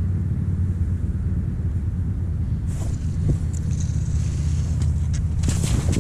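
A motor running steadily at an even speed, a low hum, with a few light clicks and rattles near the end.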